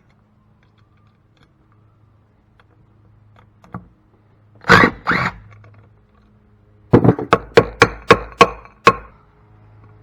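Hammer blows on metal: two sharp blows about halfway through, then a quick run of about seven blows, each with a short metallic ring.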